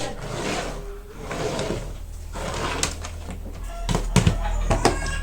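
Rustling handling noise, then a cluster of sharp clicks and knocks about four seconds in, like small hard objects being handled.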